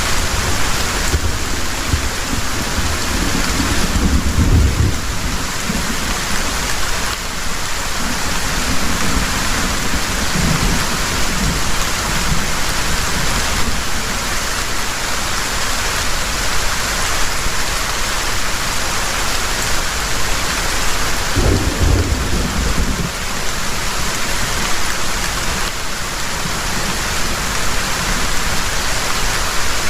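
Heavy rain falling steadily, with low rumbles of thunder that swell about four seconds in and again about two-thirds of the way through.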